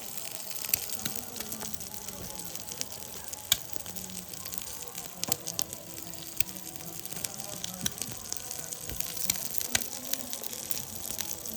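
Duck eggs frying in oil in a hot pan: a steady sizzling hiss with sharp crackles and pops scattered throughout.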